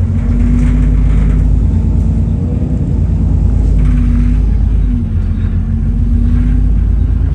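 Alexander Dennis Enviro400 double-decker bus heard from inside the cabin: a heavy, steady low rumble from the engine and axles, with a humming 'hoover' whine that drops out and comes back several times.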